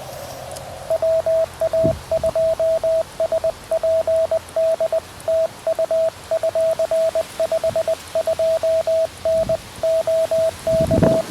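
Morse code (CW) from a QRP Labs QMX transceiver: a single steady mid-pitched beep keyed on and off in dots and dashes for about ten seconds, starting about a second in.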